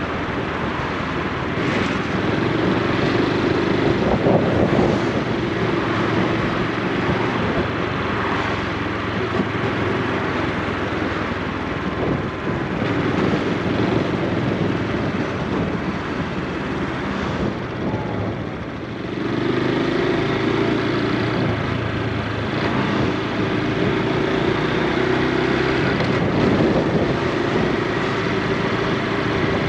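Honda Super Cub C125's single-cylinder four-stroke engine and exhaust running steadily while riding, mixed with road and wind noise. The sound eases off briefly a little past the middle, then picks up again.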